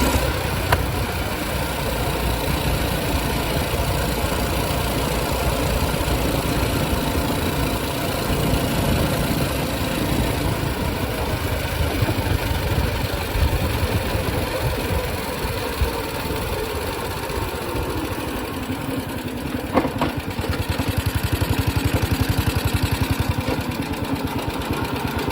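Small single-cylinder minibike engine (a stock Husky engine fitted with a PZ19 carburetor) running steadily. About 20 seconds in there is a sharp click, and then the engine settles to an idle with distinct, evenly spaced firing pulses.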